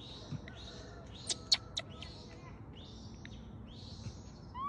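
Wild birds calling in the forest background, short raspy chirps repeating about twice a second, with a few sharp clicks about a second and a half in.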